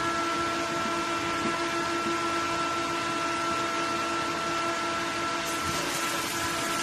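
Steady hiss and crackle of an electric arc welding a large steel pipe, with a steady hum running underneath.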